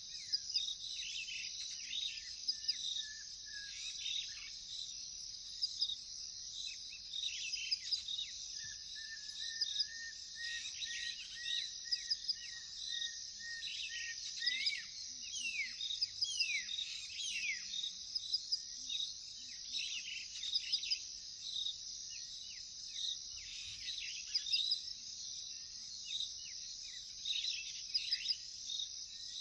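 A steady, high cricket chorus with many birds calling over it: short chirps and quick sweeping notes, and one long even note held for several seconds about a third of the way in.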